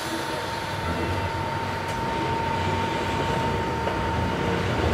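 Enoden 500 series electric train running on the track, heard from the driver's cab: a steady low rumble with a thin steady high tone over it that stops about four and a half seconds in.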